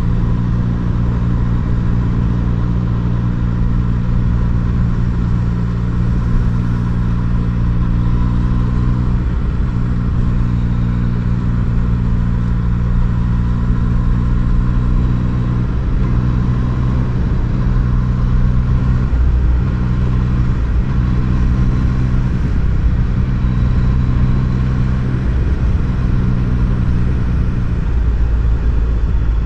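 Yamaha MT-09's three-cylinder engine running at a steady cruise under the rider, with a low rumble beneath it. Its pitch dips briefly a few times and then recovers.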